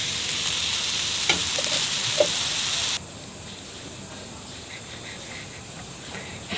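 Food sizzling loudly in a hot pan over a wood stove, with two light knocks of utensils against it. The sizzle cuts off suddenly about three seconds in, leaving a much quieter background.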